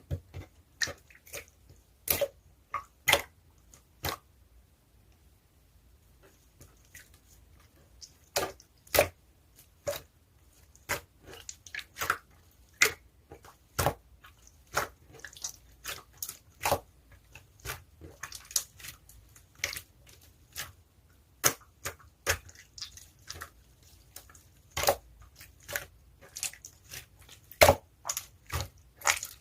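Blue slime being worked by hand, giving sharp, irregular sticky pops and clicks about once or twice a second, with a short pause about four seconds in.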